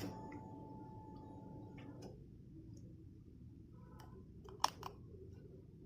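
Low, quiet background with a few faint clicks: one at the start and two close together a little before the end.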